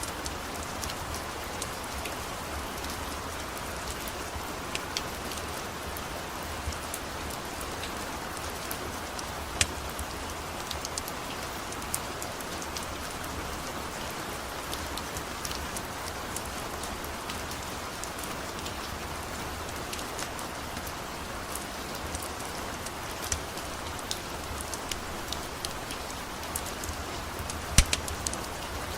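Steady rain falling, an even hiss, with scattered sharp pops and clicks; a louder pop about ten seconds in and a cluster of pops near the end.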